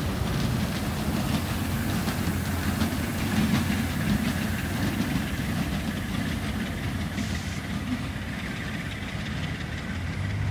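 Work train on the move: the diesel engine of a GE B23-7 diesel-electric locomotive running steadily under the rumble and faint clatter of rolling rail cars.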